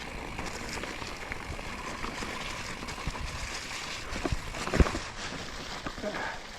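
Mountain bike riding over a wet, rocky trail: a steady rushing of tyres on wet ground, with scattered rattles and knocks from the bike and one sharp knock about three quarters of the way through.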